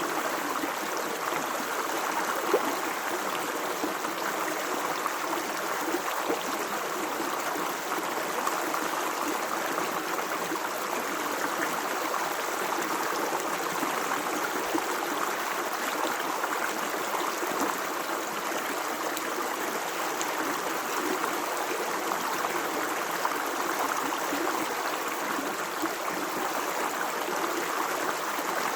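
Stream of water running steadily over rocks, a continuous rushing with small splashes and gurgles.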